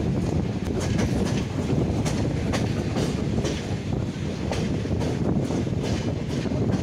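Passenger train running, heard from aboard: a steady low noise from the running gear with irregular clicks of the wheels passing over rail joints.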